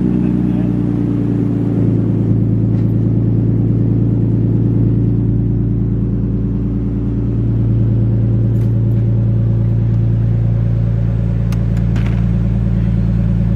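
Car engine running at a steady speed, a low, even drone with no revving or gear changes.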